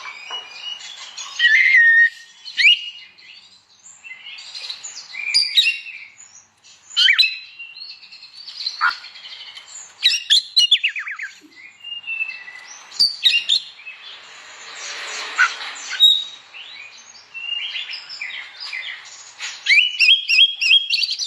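Oriental magpie-robin (kacer) singing a loud, varied song: quick phrases of whistles, trills and chirps, with short breaks between them.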